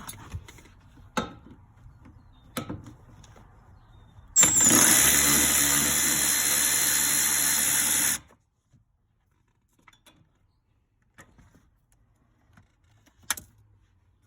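A Milwaukee Fuel brushless cordless power tool runs at steady speed for about four seconds, starting abruptly a few seconds in and cutting off suddenly. It is preceded by a few light knocks of tool handling and followed by one click near the end.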